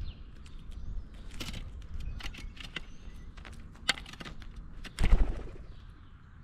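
Animals feeding at a wooden peanut table: a run of sharp clicks and taps from peanut shells and feet on the boards, with one loud thump about five seconds in.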